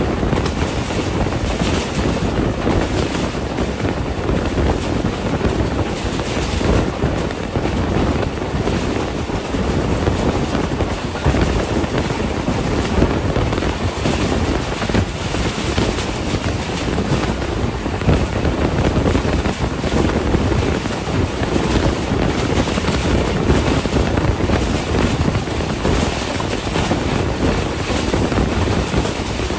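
Passenger train coach running along the line, with a steady rumble of wheels on rail and wind rushing past the microphone at the open window.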